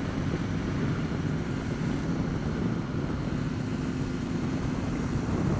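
Honda VFR750's V4 engine running at a steady speed while riding, a constant low hum with no change in revs.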